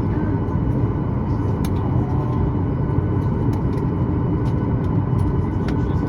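Steady cabin noise inside a Boeing 737-9 MAX holding near the gate with its CFM LEAP-1B engines at idle: a low rumble with faint steady whines on top. Scattered light clicks come through it.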